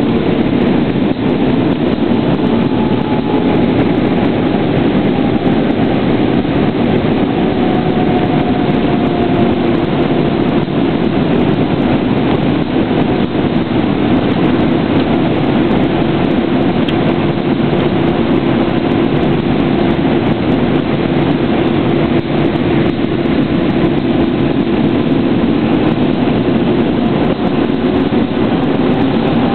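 Steady cabin noise of an Airbus A320 in descent: the jet engines running with airflow rush, and faint engine tones slowly sliding down and back up in pitch.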